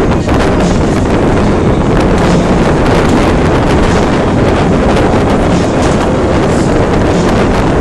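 Wind buffeting the microphone aboard a river cruise boat: a loud, steady rumbling rush of noise that masks the boat's own running sound and the water.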